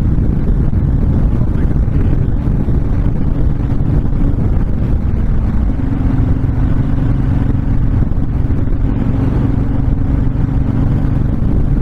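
Honda VTX1300 cruiser's V-twin engine running at a steady cruising speed on the highway, mixed with heavy wind rush on the microphone.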